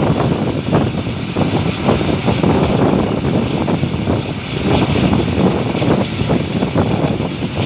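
Passenger train running at speed: a loud, steady rumble and clatter with wind buffeting the microphone.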